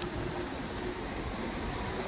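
Steady road vehicle noise: an engine running amid passing traffic.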